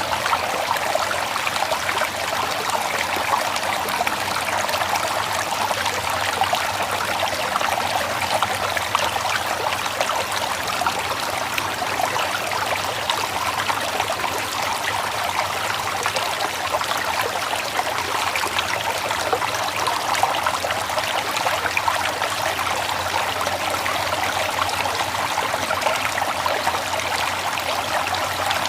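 River water flowing steadily, with a continuous trickling, splashing texture.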